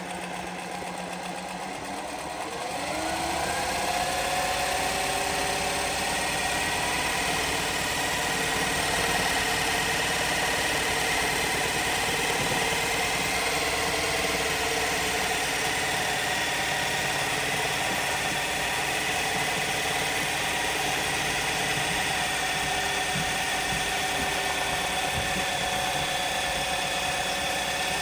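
Juki LZ-271 industrial zigzag sewing machine running, sewing a 10 mm wide zigzag stitch. It speeds up with a rising whine about two to three seconds in, then runs steadily at high speed.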